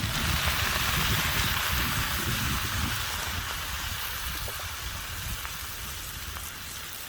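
Beer sizzling as it is poured into a hot pan of butter-fried onions and cabbage, a dense hiss that is loudest at first and slowly dies down over several seconds.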